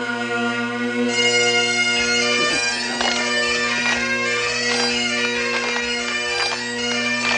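Bagpipes playing a dance tune: steady drones under the chanter's melody, which is broken by quick grace notes.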